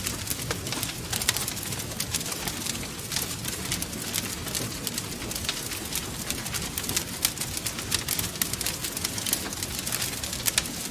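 Wood fire crackling, with frequent irregular sharp pops over a steady low rumble of burning flames.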